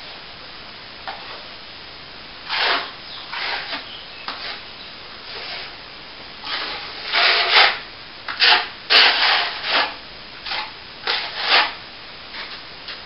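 Hand tool rubbing on a plaster surface in about a dozen short, irregular strokes, with the loudest group in the middle.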